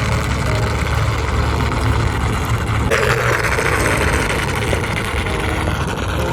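Small DC motor of a home-made foam model boat running steadily, with a louder rushing noise from about three seconds in until near the end.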